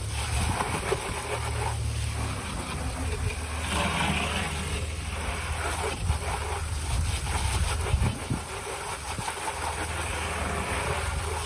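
Mahindra tractor's diesel engine idling steadily, a constant low hum.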